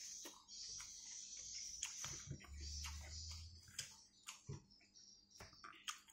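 Close-miked chewing and eating by hand: many short, sharp wet mouth clicks and smacks, over a steady faint hiss for the first few seconds.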